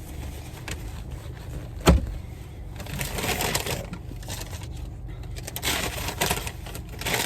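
Clicking and rustling of things being handled, with one sharp knock about two seconds in, over a low steady rumble.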